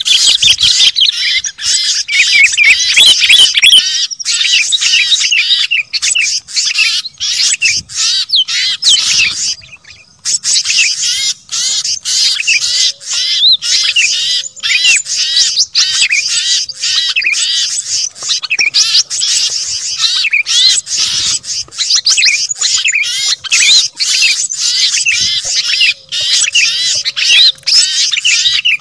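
A dense chorus of many small songbirds chirping and twittering over one another, loud and without letup apart from a brief lull about ten seconds in. It is mixed bird-lure audio of small songbirds calling at once.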